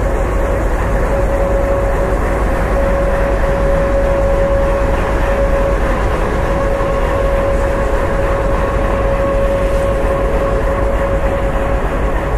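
Steady hum of a train standing at the platform: a constant whine over a broad rumble, unchanging throughout.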